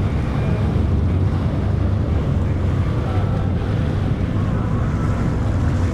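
Jet ski running steadily under way, its engine drone mixed with water rush and wind buffeting the microphone.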